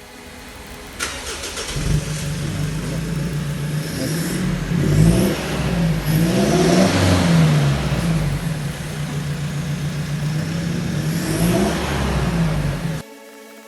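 Mitsubishi Triton MIVEC pickup running through a stainless steel exhaust with a SuperRace centre box and Akrapovic tip, idling and revved a few times in the middle. The sound cuts off abruptly near the end.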